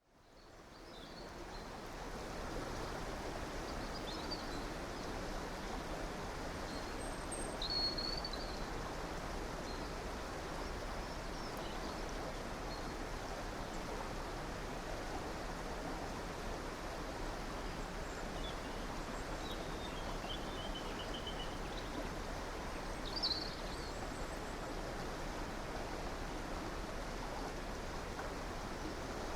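River water flowing steadily, fading in over the first couple of seconds, with scattered short bird chirps above it; the loudest chirps come about 8 and 23 seconds in, and a brief trill a little past 20 seconds.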